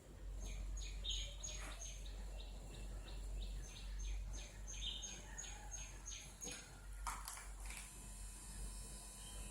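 A small bird chirping over and over in short, high notes, several a second, over a steady low hum; a brief louder clatter about seven seconds in.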